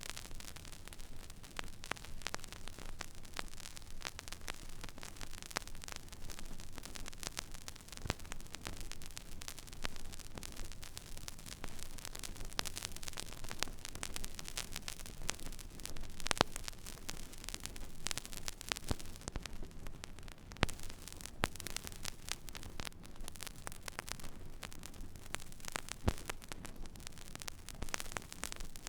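Record-player stylus tracking an empty vinyl groove: steady surface hiss thick with fine crackle and clicks, with a few louder pops and a low hum underneath.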